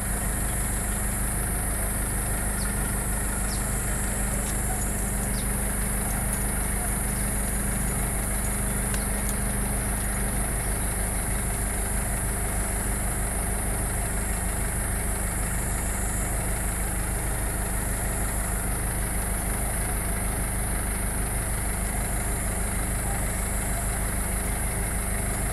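A motor running steadily with an even hum that does not change.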